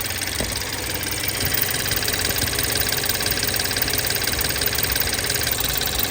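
BMW N20 2.0-litre turbocharged four-cylinder idling steadily, with a fast light ticking running through it and a single click about half a second in. The owner blames the engine's rattle on play in the turbo wastegate actuator arm.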